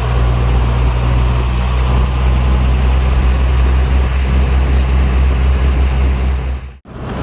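Heavy diesel engine of earthmoving machinery running steadily under load at a loud, low pitch. The sound cuts out abruptly for a moment near the end, then comes back.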